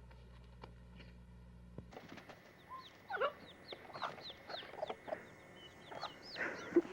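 A faint steady hum with a few ticks, then, about two seconds in, chickens calling: lower clucks mixed with many short, high chirps that slide downward.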